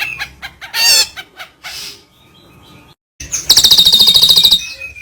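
Wild songbirds calling: sweeping chirps at first, then after a short break a loud rapid trill of about a dozen notes a second lasting about a second, followed by a long held whistle.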